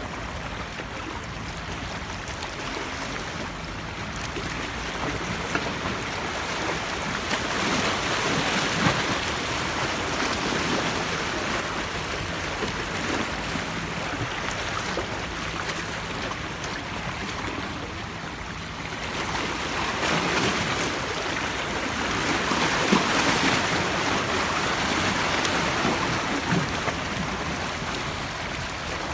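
Sea waves washing onto the shore in a steady rushing hiss. The surf swells louder twice, about a quarter of the way in and again about two-thirds through.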